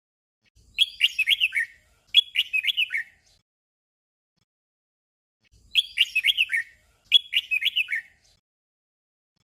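Red-whiskered bulbul singing a short, simple phrase doubled: two quick warbled phrases back to back. After a pause of about two and a half seconds, the same doubled phrase comes again.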